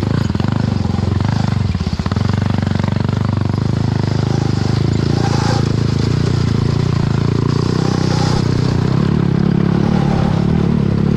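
Honda CRF450 single-cylinder four-stroke dirt-bike engine in a Barbie jeep, run hard at high revs, with a brief lift off the throttle about two seconds in and the revs climbing a little near the end.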